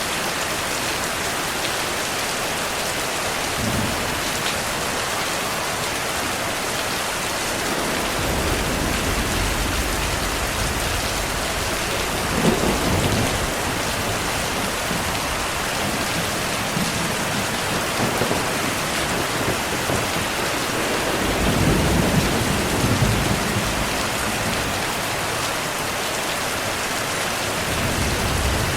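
Heavy rain falling steadily, with thunder rumbling low several times: a rumble builds about a third of the way in, and a longer, louder roll comes past two-thirds.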